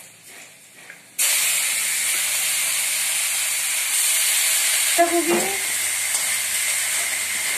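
Shredded green cabbage dropped into hot oil in a kadai, which bursts into a loud, steady sizzle about a second in and keeps sizzling as it is stirred with a spatula.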